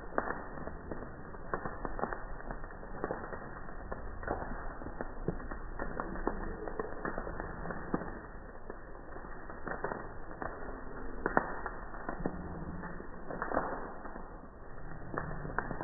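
Campfire wood burning, crackling with many sharp, irregular pops, one louder pop about eleven seconds in.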